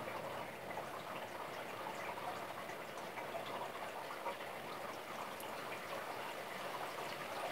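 Steady rain falling during a thunderstorm: an even hiss with scattered light ticks of drops.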